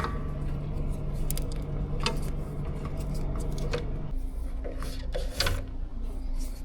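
Scattered light clicks and handling noises from hands and tools working on a truck light's wiring, over a steady background hum that changes pitch about four seconds in.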